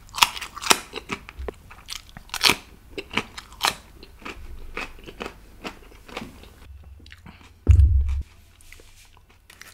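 Close-miked eating sounds: a person chewing a mouthful of food with quick wet lip-smacks and small crunches, thinning out after about six seconds. Near the end comes one short, loud low thump.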